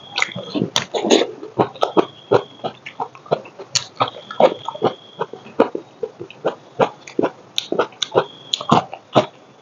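Close-miked chewing and lip-smacking from someone eating rice, tomato and raw bamboo shoot by hand: loud, irregular wet smacks and clicks, several a second.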